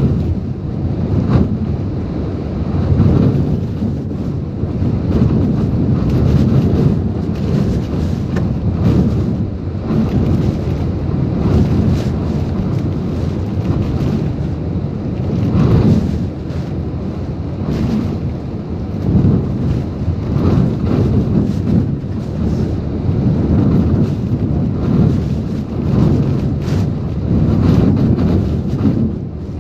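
Typhoon-strength wind gusting hard, with heavy wind buffeting on the microphone; a loud, low rumbling noise that swells and eases every second or two.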